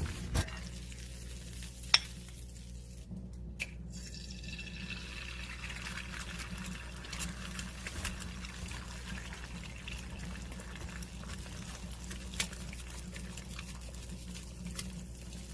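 Food simmering on a homemade wood-burning camping stove made from a gas cylinder: a steady bubbling hiss, with a few sharp clicks about two seconds in and near the end.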